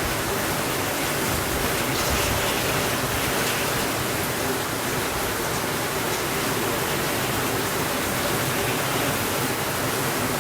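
Steady rainfall, an even unbroken hiss with faint scattered ticks of drops.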